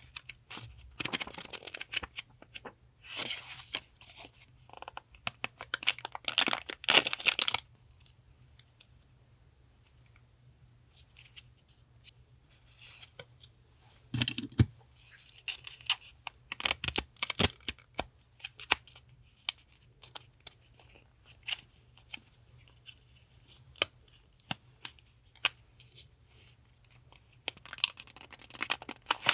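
Hands handling paper and plastic packaging: dense rustling and tearing for the first seven seconds or so, then scattered light clicks and short rustles, and more rustling near the end. A refrigerator hums low and steady underneath.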